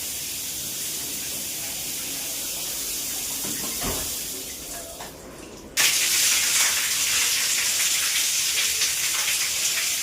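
Water running from a bathroom fixture as it is tested. A low thump comes about four seconds in and the flow dies down. Just before six seconds it is turned on suddenly at a stronger flow and splashes hard.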